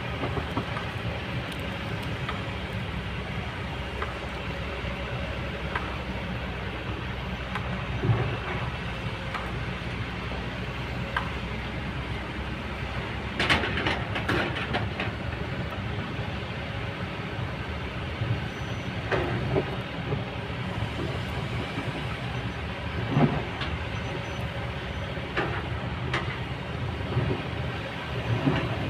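Kobelco excavator's diesel engine running steadily while the machine works, with occasional sharp metal clanks and knocks, a quick run of them about halfway through.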